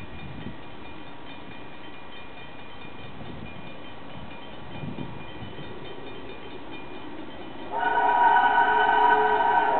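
Steam train running, with a steady noise and faint whistle tones, then its steam whistle blowing loudly from a little under eight seconds in, one held chord of several tones.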